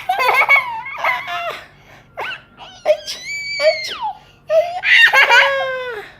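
Laughter in several high-pitched bursts, with a long, high squeal held for about a second a little after three seconds in.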